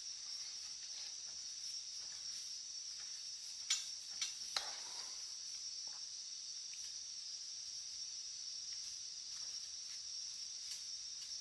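Crickets chirping steadily, with three sharp clicks a little under halfway through, about half a second apart.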